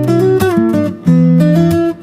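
Background music on acoustic guitar, strummed and picked chords changing every fraction of a second.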